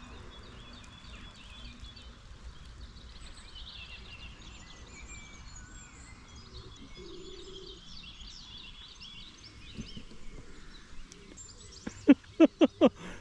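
Small birds chirping and singing in the background over a faint steady outdoor hum. Near the end come five loud, short sounds in quick succession.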